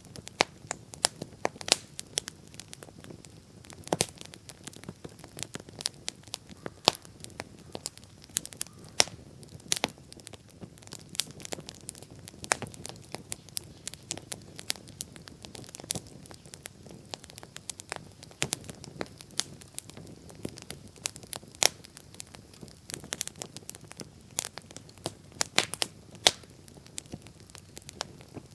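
Wood bonfire crackling and popping: irregular sharp snaps, a few to several a second and varying in loudness, over a soft low rush of burning.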